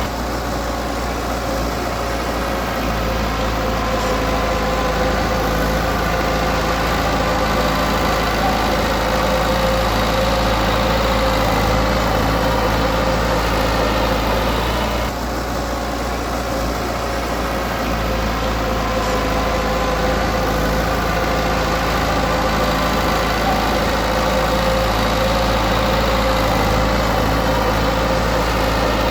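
Heavy-equipment diesel engine running steadily, its note changing abruptly about halfway through.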